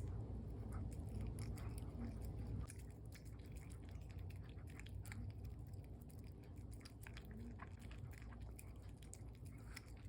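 A Pomeranian chewing and biting a cherry: a stream of short, irregular mouth clicks and smacks over a low steady hum.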